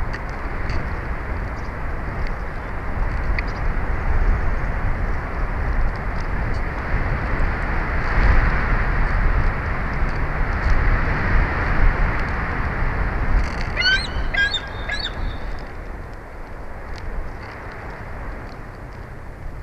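Steady outdoor noise, like wind on the microphone, with a bird calling a short series of about four quick high notes about 14 seconds in.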